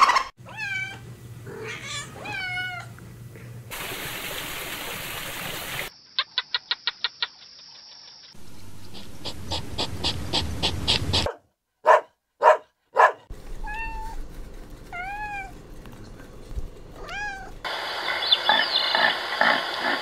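A string of short animal sound clips in turn: a raccoon's high chirping calls, each sliding up and down in pitch; a quick even series of clicks; a hedgehog's rhythmic snuffling; then more gliding chirps.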